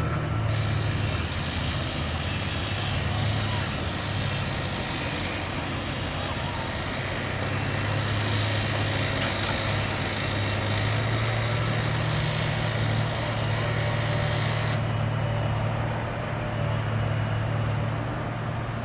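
Heavy vehicle engine running steadily with a deep, even hum. The higher hiss drops away about fifteen seconds in.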